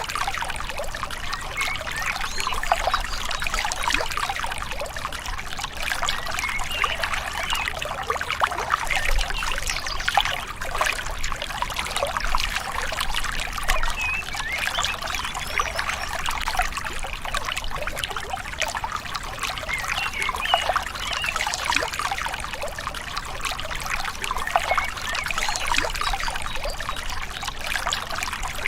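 Gently flowing river, a steady trickling and babbling of water with small gurgles throughout.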